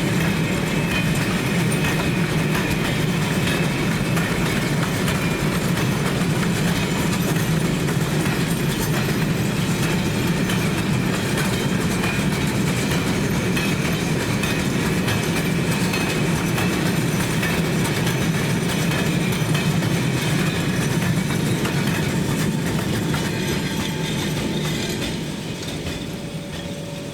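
A train rolling past on the rails with a steady, loud rumble and faint wheel clatter over the rail joints, easing off over the last few seconds.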